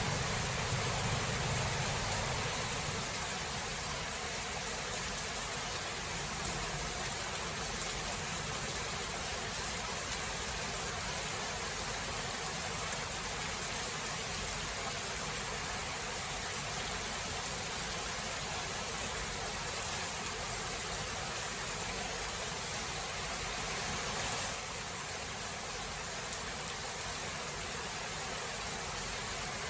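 Steady rain falling, an even hiss. The tail of a low thunder rumble dies away in the first couple of seconds, and the rain eases slightly about three-quarters of the way through.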